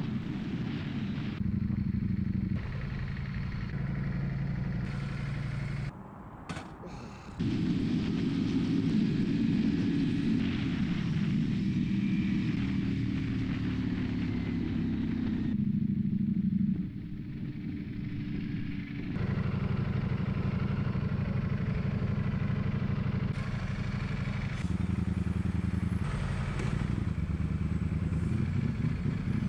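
Ducati Panigale V4 motorcycle engine running while riding. Its pitch rises and falls as the revs change in the middle, and the sound changes abruptly in level several times.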